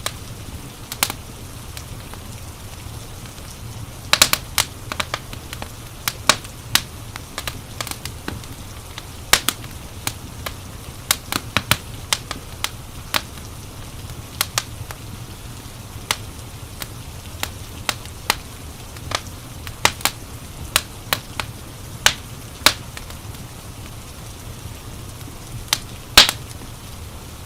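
Crackling wood fire: irregular sharp pops and snaps, some louder than others, over a low steady rumble.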